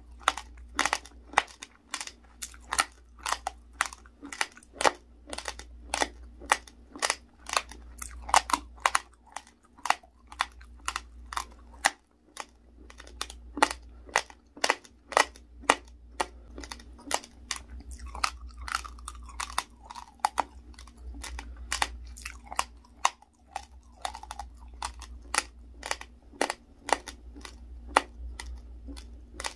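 Raw basmati rice mixed with honey being chewed close to the microphone: a continuous run of sharp, brittle crunches, about two to three a second, as the hard grains are bitten and ground.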